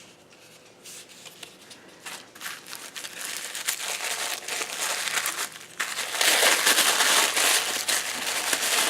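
Packaging crinkling and rustling as it is handled and opened, quiet at first and getting louder, most intense over the last few seconds.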